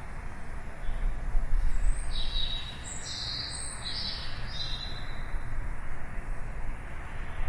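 Small songbirds chirping: a quick run of four or five short, high chirps in the middle of the stretch, over a steady low rumble of city background noise.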